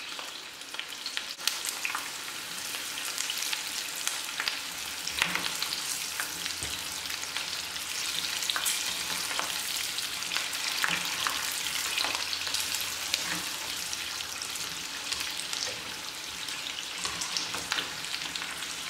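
Battered cauliflower florets (gobi 65) deep-frying in hot oil with slit green chillies: a steady sizzle with scattered crackles and pops. Curry leaves go into the oil near the start, and a metal mesh skimmer stirs the pieces through the oil.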